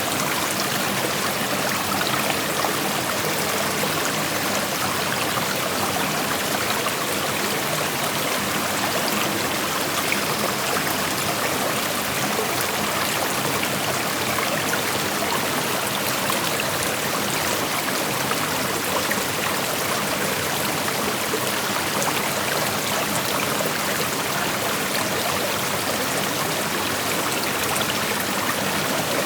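A small creek flowing over rocks: a steady rush of water with fine trickling and splashing, even and unbroken throughout.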